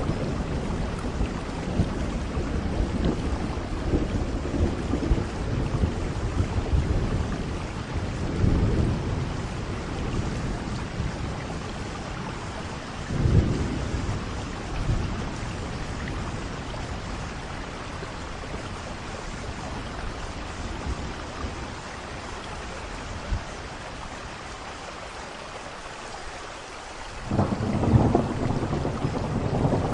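Steady heavy rain with rolling thunder: low rumbles swell several times, strongest about a third of the way in and again near the end, with a quieter lull just before the last rumble.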